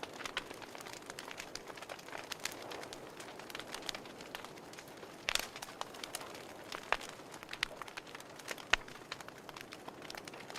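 Wood fire in a fireplace crackling: irregular sharp pops and snaps over a steady soft hiss, the loudest pop a little past the middle.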